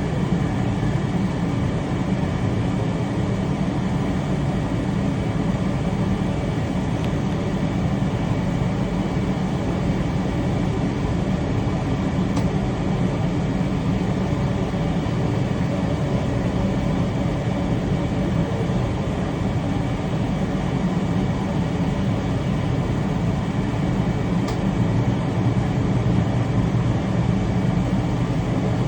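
Train in motion at a steady pace: a continuous rumble of the running train, heaviest in the low range, with no breaks or changes.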